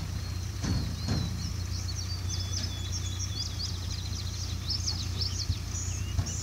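A songbird singing a quick run of varied chirps and trills, over a steady low hum, with two short low sounds about a second in.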